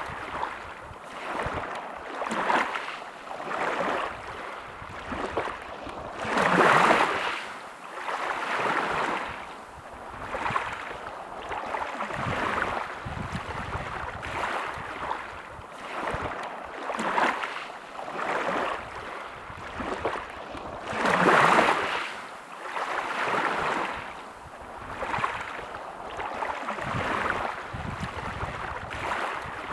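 Sea waves breaking and washing in, a rushing noise that swells and fades every couple of seconds, with two bigger waves breaking about seven and about twenty-one seconds in.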